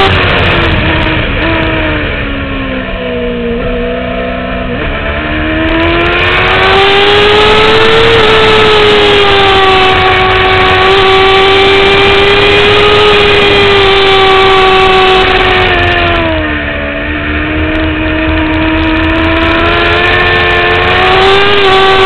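2009 Kawasaki ZX-6R's inline-four engine revving high on a racetrack, heard from onboard with wind rush. The engine note falls for the first few seconds as the bike slows, jumps up at about five seconds, holds high, then dips around sixteen seconds before climbing again.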